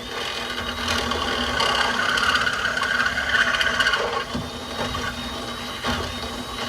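Power drill boring out a hole in metal to half an inch, running steadily under load, starting suddenly and cutting off near the end.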